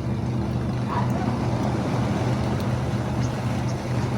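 A steady low engine drone, most likely a boat motor running offshore, under a constant wash of sea and wind noise.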